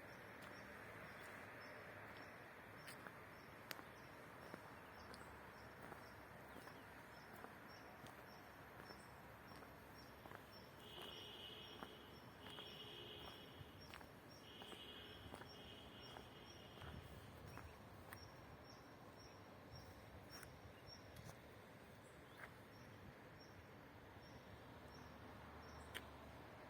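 Faint rural outdoor ambience: a steady hiss under an insect chirping in a regular high-pitched pulse about twice a second, with a bird calling in four short bursts around the middle and scattered soft clicks.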